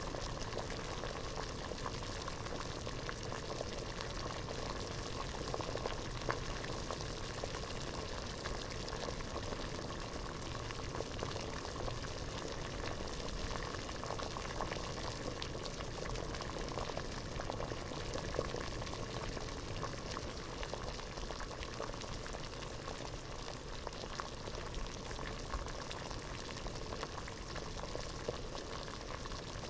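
Water at a rolling boil in a pot: a dense, steady bubbling made of many small pops, with no let-up or change in intensity.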